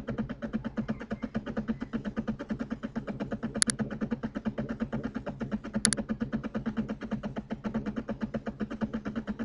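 Computer mouse clicking in quick pairs, about two seconds apart, over a steady, rapidly pulsing mechanical hum in the room.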